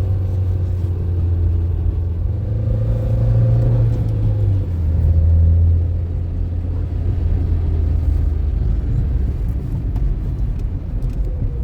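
Car engine and road rumble while driving, a steady low drone whose pitch steps down about four and a half seconds in.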